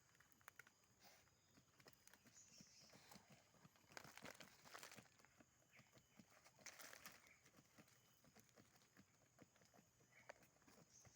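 A dog digging at a rat hole: faint scratching and scraping of paws in soil with small patters and clicks, in stronger scratchy bursts about four and seven seconds in.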